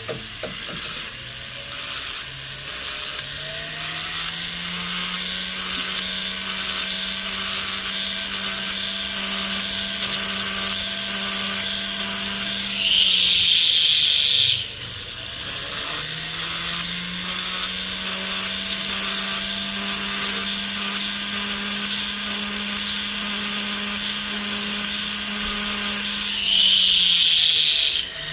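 Jeweler's rotary tool filing the inside of a gold ring shank. The motor spins up, runs steadily and winds down, twice. A louder, higher-pitched grinding comes shortly before each wind-down.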